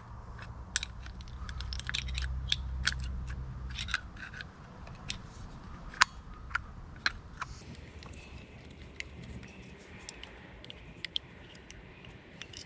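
Scattered sharp metallic clicks and clinks of tools and brake parts being handled while a new brake pad is seated in a caliper, the loudest about six seconds in, over a low steady hum.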